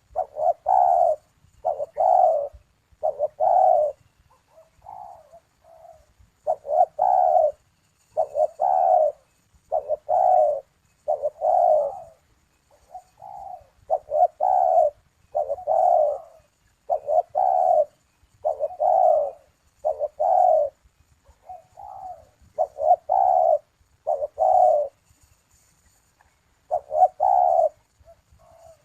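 A puter dove (Barbary dove) cooing over and over, short coos roughly once a second, with a brief pause near the end.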